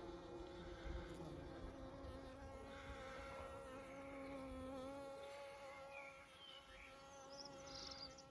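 Bees buzzing around flowering privet, several droning tones at slightly different pitches overlapping and shifting. A few faint high chirps near the end.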